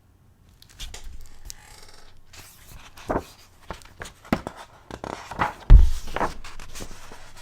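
Handling of a hardcover picture book as a page is turned: paper rustling and a series of short taps and clicks, the loudest a low thump about three-quarters of the way through.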